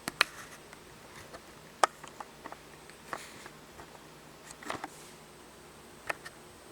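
A bird tapping and pecking at a house window, trying to get in: a series of irregular sharp taps, the loudest near the start and about two seconds in.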